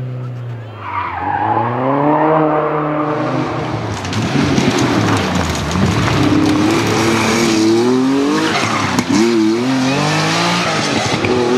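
Historic rally car engine at full throttle, its pitch repeatedly climbing and dropping through gear changes and lifts, over loud tyre and road noise from the car sliding.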